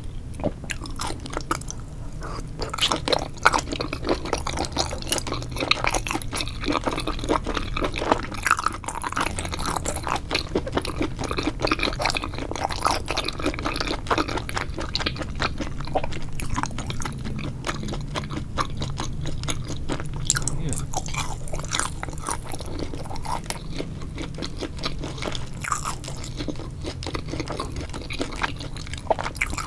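Close-miked mukbang eating of a spicy seafood boil: wet chewing and mouth sounds, a dense run of small clicks and crunches.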